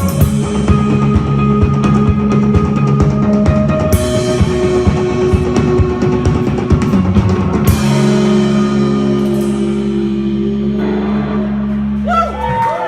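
Live rock band playing with drum kit and guitar. About eight seconds in the drums stop, and a final held chord rings on until it cuts off abruptly just before the end.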